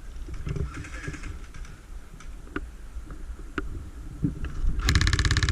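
Airsoft gun firing a short burst of rapid, evenly spaced shots near the end. Before the burst there is rustling handling noise with a few single clicks.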